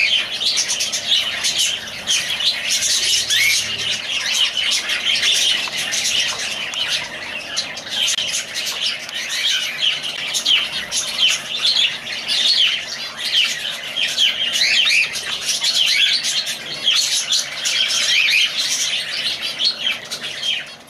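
A group of lovebirds chirping and squawking continuously in a dense, overlapping chatter of short, high calls.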